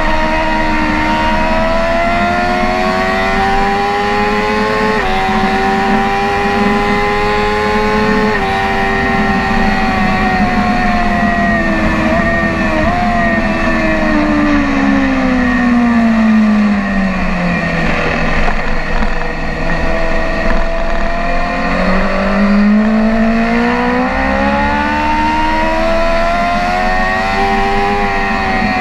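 BMW S1000RR inline-four sport bike engine at full throttle on track. It revs up, with two quick upshifts about five and eight seconds in, then winds down steadily on the overrun into a slow section. It holds low for a few seconds, then revs hard again near the end.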